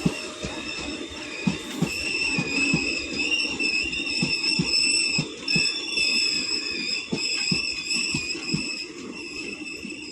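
Parasuram Express passenger train moving through the station, its wheels knocking irregularly over rail joints, with a high, wavering squeal of wheels or brakes over them.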